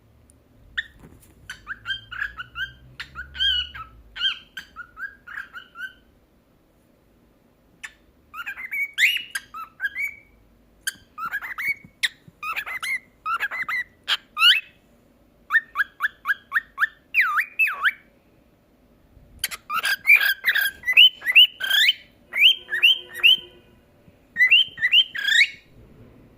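Pet cockatiel chirping and whistling in quick runs of short, sweeping notes, with a couple of brief pauses.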